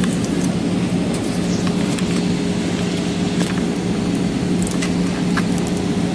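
Steady cabin drone of an Airbus A320-214 in flight, heard from inside the cabin: engine and airflow noise with a constant low hum, and a few faint clicks.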